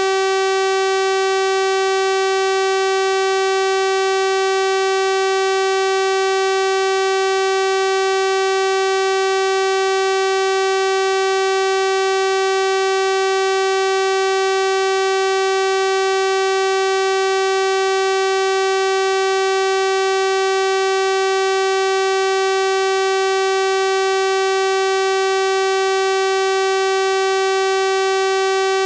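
Synthesized 384 Hz sawtooth-wave tone, a steady buzzy hum held at one pitch and constant level, rich in evenly spaced harmonics.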